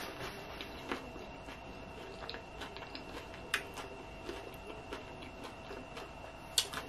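Close-up chewing of a mouthful of loaded nachos, mouth closed: soft chewing with scattered small clicks.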